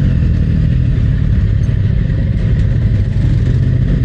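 Yamaha MT-09's three-cylinder engine running steadily at low revs.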